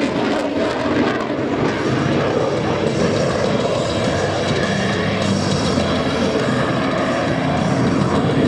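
Lockheed Martin F-22 Raptor's twin Pratt & Whitney F119 turbofan engines, a steady heavy jet roar with a thin high whine over it, growing a little louder toward the end.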